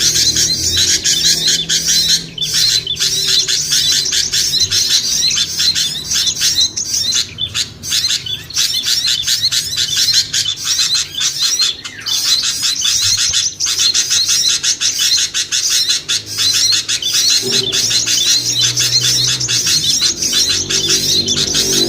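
Dense, continuous chorus of small songbirds' rapid high chirps and trills, a layered bird-lure (pikat) recording for small birds. A low music bed runs underneath and grows louder near the end.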